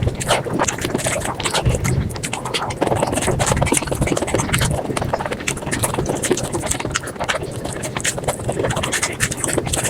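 Close-miked mouth sounds of eating spicy chicken skin and rice, played at five times speed: chewing and smacking run together into a fast, dense clatter of wet clicks.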